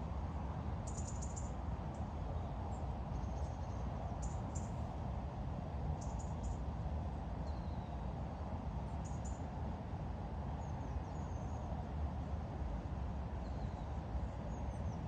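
Small birds chirping now and then in short high calls over a steady low rumble.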